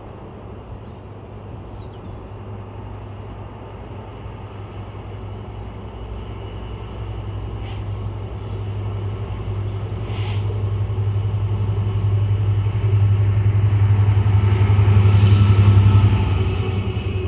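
Diesel train approaching along the line, its engine drone growing steadily louder for about fifteen seconds and peaking near the end.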